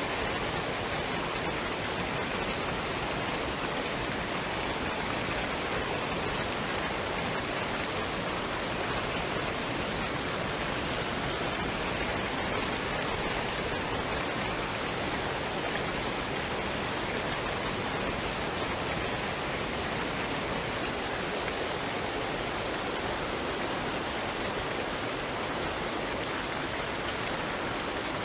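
Waterfall and stream water rushing steadily, a dense unbroken wash of noise with no changes.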